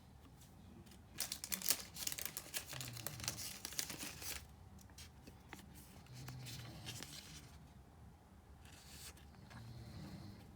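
Foil trading-card booster pack wrapper being crinkled and torn open by hand, in dense crackly rustling that is loudest for a few seconds early on. Shorter, quieter bursts of crinkling follow twice later.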